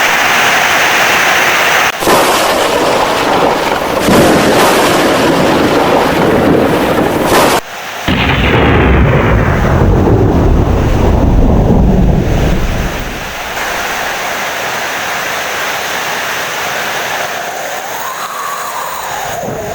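Heavy rain with thunder: a long low rumble of thunder rolls from about eight seconds in, then fades to steady heavy rain at a lower level.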